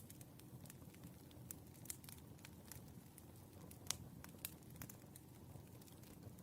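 Wood fire burning with a soft crackle: scattered irregular pops and snaps over a low rumble, one sharper pop about four seconds in.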